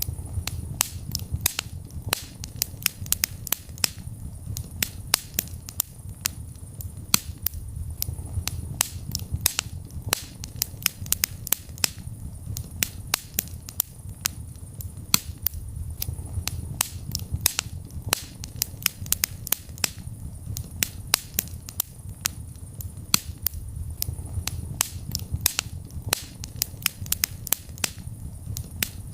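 Wood fire burning in a fireplace: a steady low rumble of flames under many sharp, irregular crackles and pops, several a second.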